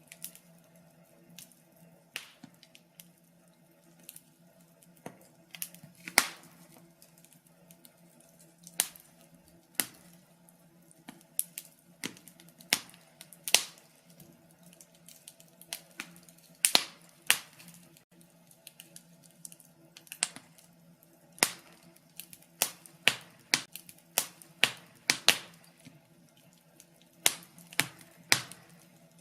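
Wood fire crackling in a fireplace: irregular sharp pops and snaps, some much louder than the rest, over a faint steady hum.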